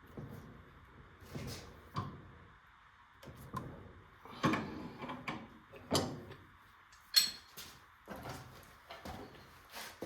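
Tools and furnace parts being handled: irregular short knocks, clunks and scrapes, with one sharper click about seven seconds in, over a faint steady hiss.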